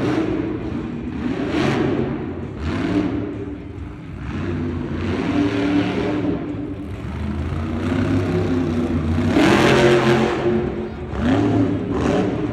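Monster truck engine revving hard in repeated surges during a freestyle run, each burst rising and falling, the loudest about ten seconds in.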